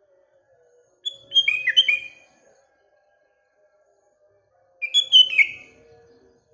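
Sooty-headed bulbul (kutilang) singing: two short phrases of clear, falling whistled notes, one about a second in and another about five seconds in.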